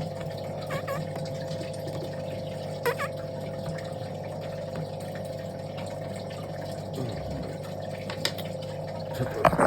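Steady hum of a small motor with a few short, faint chirps from baby birds.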